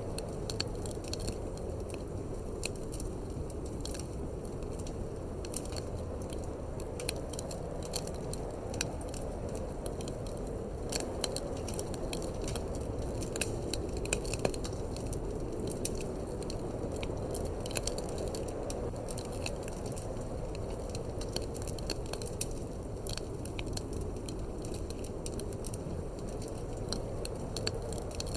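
Wood fire crackling in a fireplace, with frequent sharp irregular pops and snaps over a steady low rush of wind.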